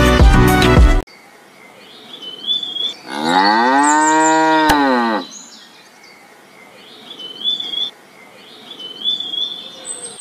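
Music cuts off about a second in. Then a cow moos once: one call of about two seconds that rises and then falls in pitch. Faint, short high chirps repeat in the background.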